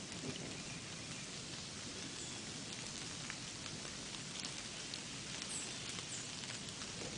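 Steady rain falling, an even hiss with scattered fine drop ticks, and a few faint, short high chirps over it.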